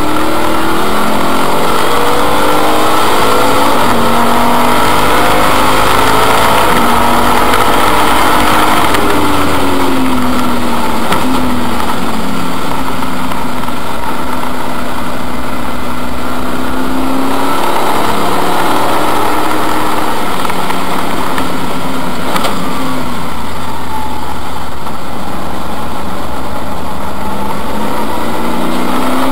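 BMW race car engine at racing speed, heard from inside the cabin. Its pitch climbs as it accelerates, drops on slowing for corners, and climbs again.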